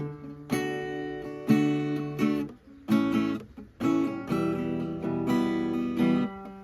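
Guitar played as a song, chords strummed roughly once a second and left to ring, with short gaps between.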